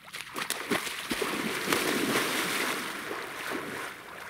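Pond water splashing and sloshing as a person plunges in for a swim. It builds within the first second, is loudest about halfway through, then settles.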